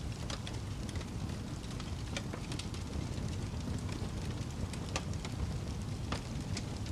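Wood fire crackling over a steady low rumble, with frequent small pops and two sharper pops about five and six seconds in.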